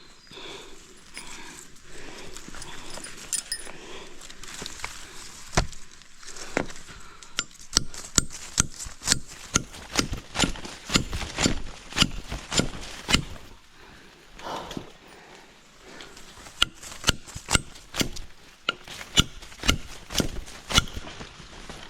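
A series of sharp knocks, coming about two a second from about six seconds in, with a short lull about two-thirds of the way through.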